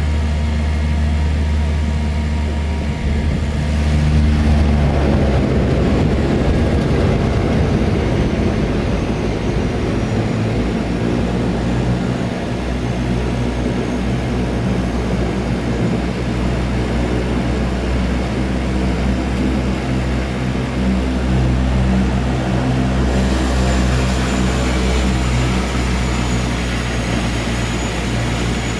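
Seaplane's propeller engines droning steadily, heard from inside the cabin as it lands. A rougher rushing noise joins about four to five seconds in, and a faint high whine comes in near the end.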